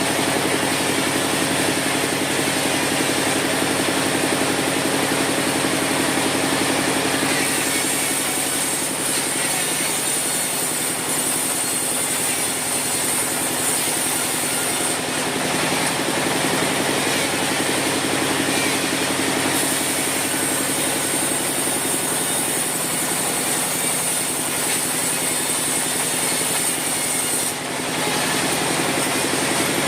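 Sawmill saw running steadily with a constant hum, and a high hiss that rises over it twice for several seconds each time as the blade works through wood.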